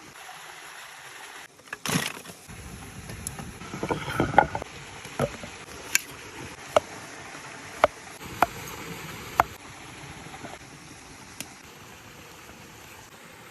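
Food cooking on a hot natural stone slab: a steady hiss under a series of sharp metal utensil taps and knocks against the stone. The knocks bunch together around two and four seconds in, then come singly about once a second until about ten seconds in, with one last tap shortly after.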